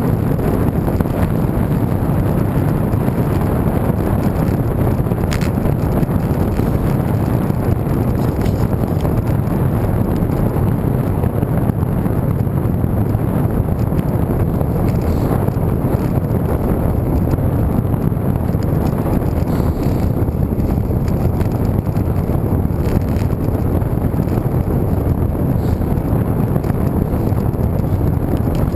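Steady wind rumble on the microphone of a camera riding along on a moving road bike, dense and low with no breaks.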